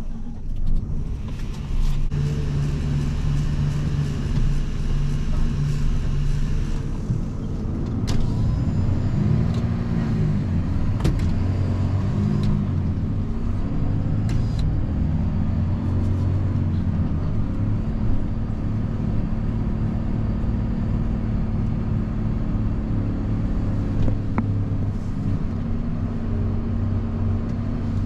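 Volvo FE 320 lorry's diesel engine running on the move, heard from inside the cab. The engine note rises and falls several times in the middle as the revs change.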